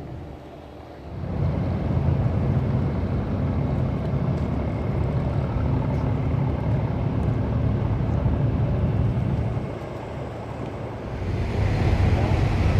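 A ferry's engines running with a steady low hum under a rushing noise. The sound is quieter for about the first second, dips briefly a little under two-thirds of the way through, and grows louder near the end.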